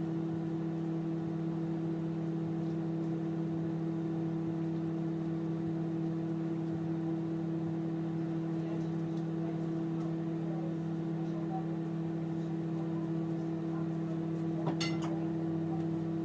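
A steady low hum from a running motor, unchanging throughout, with a couple of light clicks near the end.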